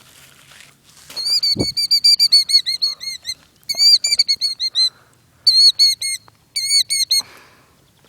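Killdeer giving rapid, high-pitched repeated alarm calls in four bursts, the agitated calling of a ground-nesting bird defending its eggs against an intruder.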